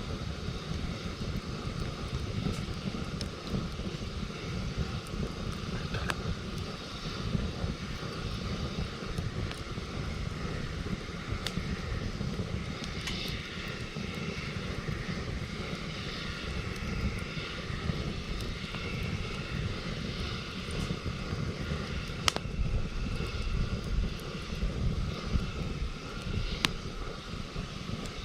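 Campfire crackling with a few sharp pops, over a low steady rumble.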